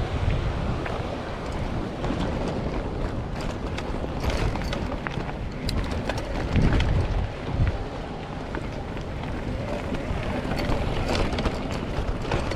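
Strong wind buffeting the microphone in gusts, with scattered clicks and rattles from a mountain bike riding over rough ground. The heaviest gusts come about halfway through.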